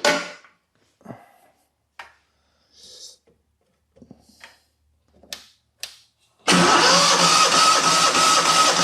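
A few light clicks and knocks, then about 6.5 seconds in the electric starter cranks the twin-cylinder 27 hp Kohler engine with its spark plugs out for a compression test: a loud, steady whirring with a constant whine, running for over two seconds. The owner takes the cranking for a sign that the battery needs charging.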